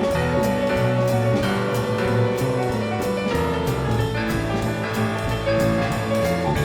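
Instrumental jazz: piano playing with a drum kit keeping a steady beat on the cymbals.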